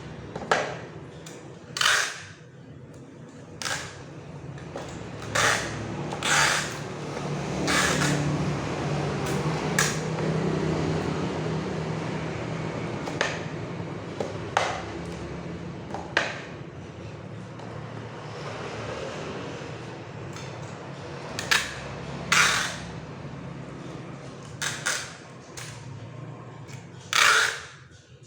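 A wooden packing crate being nailed together: about fifteen sharp knocks at uneven intervals, some with a short ringing tail, over a steady low hum.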